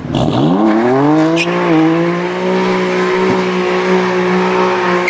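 A sports car's engine accelerating hard: the revs climb steeply, dip briefly at a gear change about a second and a half in, then hold at a steady high pitch.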